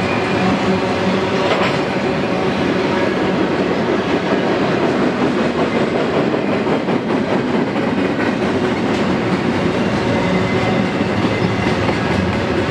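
Double-stack intermodal well cars of a long freight train rolling past: steady, loud noise of steel wheels on rail.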